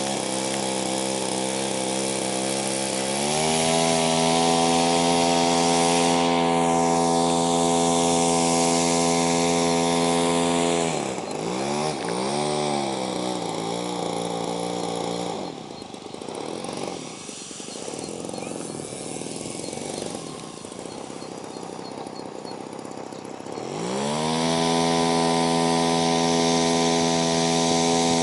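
Gasoline engine of a 67-inch Sbach 300 radio-controlled aerobatic plane running hard with throttle changes: it steps up to a high steady tone a few seconds in, dips and wavers near the middle, drops to a lower, quieter throttle for several seconds, then climbs back up to the high steady tone near the end.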